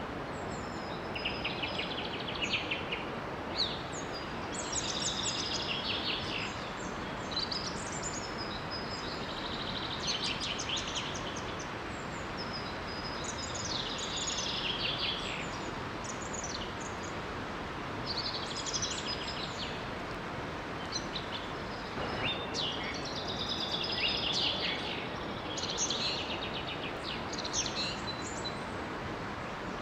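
Songbirds singing short, repeated trilled phrases every couple of seconds over the steady rush of a small waterfall.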